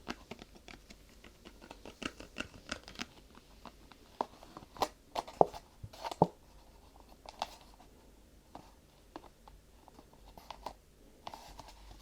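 Close-miked ASMR handling of crinkly material: a quick run of small crinkling clicks, then four louder sharp taps in the middle, then sparser, quieter ticks and rustles.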